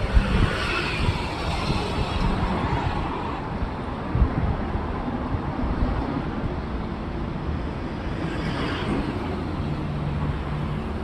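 Road traffic noise: a steady rumble of vehicles, with one passing in a falling whoosh at the start and another swelling past about eight seconds in.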